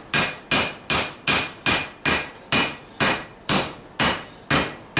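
Steady rhythmic hand-hammer blows on hot steel on a Vulcan 90-pound cast-iron anvil, about two and a half strikes a second, each with a short metallic ring.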